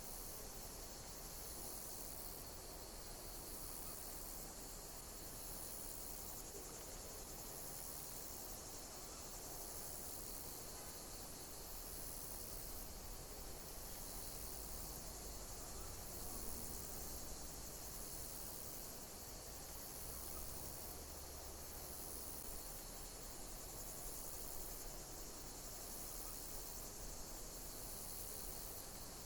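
Insects chirping: high-pitched chirps repeating about once a second over a steady hiss.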